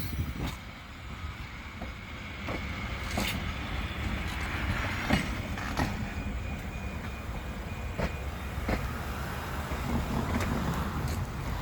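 Vintage passenger train rolling along the track: a steady low rumble broken by sharp clacks, several coming in pairs a little under a second apart.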